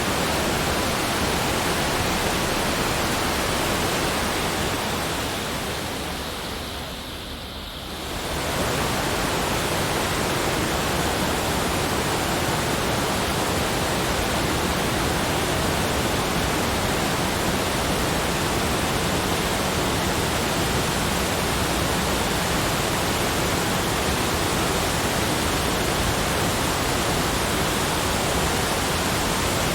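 Steady, even rushing noise spread across all pitches, with no distinct events. It fades down about five seconds in and swells back up about eight seconds in.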